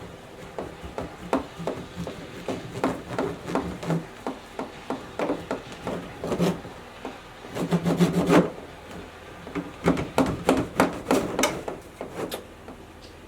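Irregular knocks and scraping from objects being handled, with a louder stretch of rubbing about eight seconds in.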